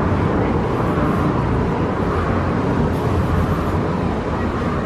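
Steady, loud rumbling outdoor noise with no distinct events in it.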